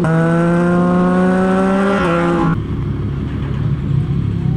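Yamaha MT-09's inline three-cylinder engine through a Revoc SP full exhaust system, accelerating with its pitch climbing steadily and a quick break right at the start like a gear change. About two and a half seconds in, the throttle closes and the engine falls to a lower, uneven rumble.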